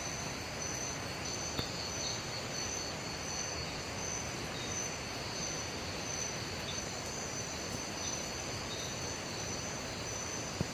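Night-time rainforest insect chorus: crickets or similar insects calling steadily in a couple of high, unbroken tones over a constant hiss.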